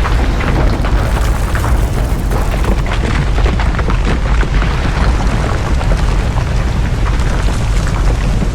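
Landslide: rocks and debris coming down with a heavy, continuous rumble and dense crackling impacts throughout.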